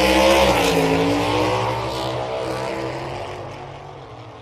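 Sports car engine sound effect: a loud, revving run whose pitch dips about a second in, then fades away gradually.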